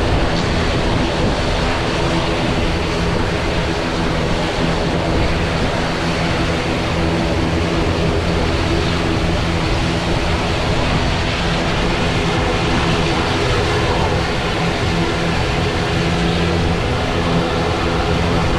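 Airliner engines running steadily at close range: a loud, even rush with a steady hum underneath that neither rises nor falls.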